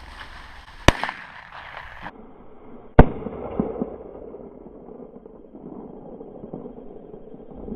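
Two shotgun shots about two seconds apart, the second one louder, each leaving a short fading echo.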